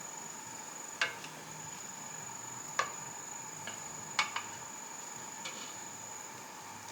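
Steady high-pitched insect trilling, with a few sharp clicks or clinks: one about a second in, one near three seconds, and a close pair a little after four seconds.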